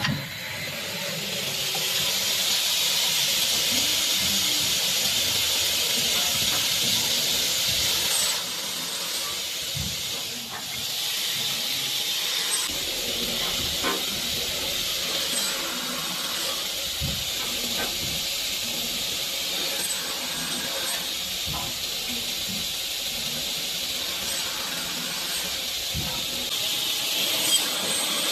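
Woodworking multi-angle cutting and drilling machine running with a steady high hiss, dipping slightly after about eight seconds, with scattered light clicks and knocks.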